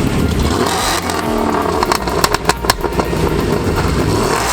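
Car engine running loudly with a deep rumble, with a brief rise in pitch a little over a second in and several sharp cracks about two seconds in.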